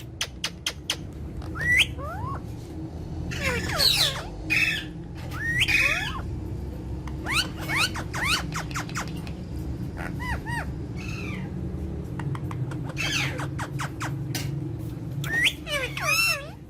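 Pet parrots calling: a run of squawks, clicks and short whistled glides rising and falling in pitch, over a steady low hum.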